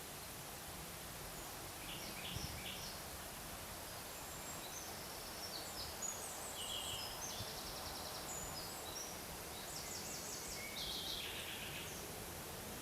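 Forest ambience: small birds giving short, rapid chirping trills several times over a steady background hiss.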